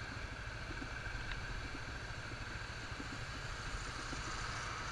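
Yamaha Fazer 250 single-cylinder motorcycle riding along: a steady mix of engine running and wind rushing past.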